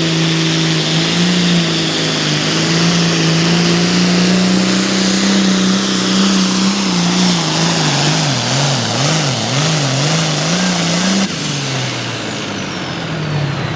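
Hot farm class pulling tractor's turbocharged diesel engine at full throttle under sled load. The revs surge and dip over and over in the middle of the run, then the throttle comes off about eleven seconds in and the engine note drops while the turbo whistle winds down.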